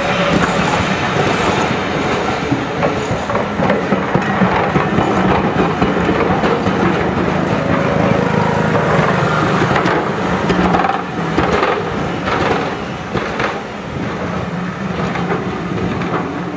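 Passenger coaches rolling past at close range: a steady rumble of wheels on rail, with a clatter of wheels clicking over the rail joints from about ten seconds in. The sound eases a little near the end as the train goes by.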